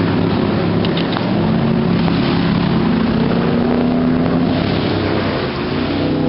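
Motorboat engine running steadily, its pitch drifting slightly, over a steady rushing hiss.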